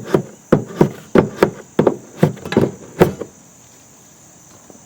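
A hand tool knocking repeatedly, about three times a second, as it presses EternaBond roof-sealing tape down under the edge of a vent on the camper's roof. The knocks stop a little after three seconds in.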